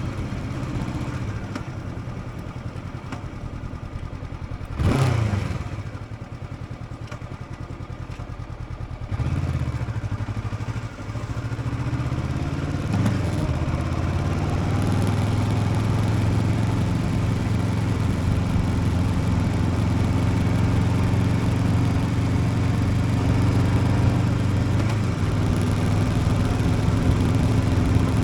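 Motorcycle engine under way. There is a brief loud burst about five seconds in, then a few seconds of low running, after which the engine picks up, rising in pitch, and settles into steady cruising.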